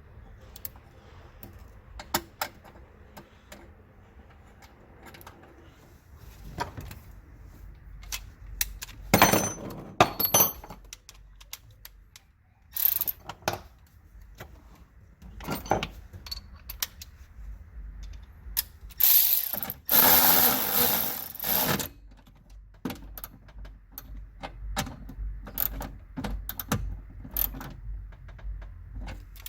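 Hand tools working on a car: ratcheting and irregular metal clicks and knocks, with two longer loud rasping stretches, one about nine seconds in and one about twenty seconds in.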